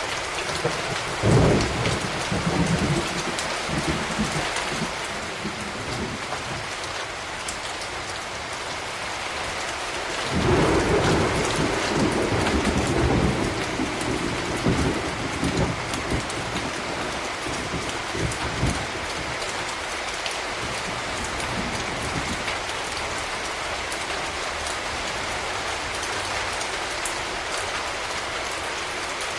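Steady rain with two rolls of thunder: a sharp clap about a second in that rumbles away over a few seconds, and a longer roll starting about ten seconds in that fades out over the following eight seconds or so.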